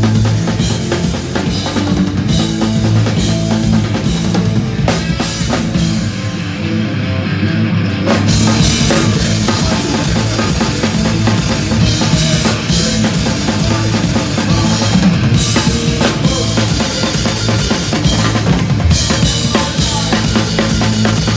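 Hardcore punk band playing a song live, driven by a loud drum kit, with a short break about six seconds in before the full band comes back in.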